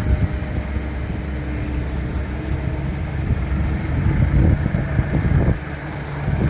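Heavy diesel truck engine running steadily, with a couple of brief louder swells about four to five seconds in.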